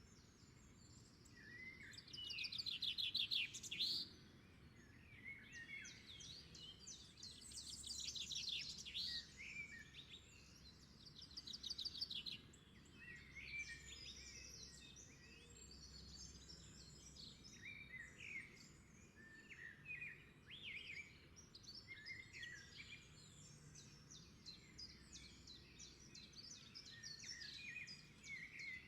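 Several songbirds chirping and singing, with a few fast trills among the calls.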